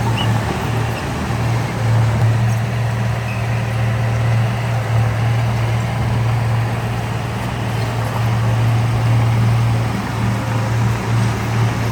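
Heavy diesel engine of earthmoving machinery running steadily under a constant deep hum, with slight waverings in level.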